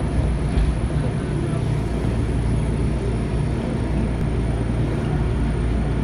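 Steady low rumble and hum inside an Enshu Railway electric train standing at a station platform, just before it starts to pull away.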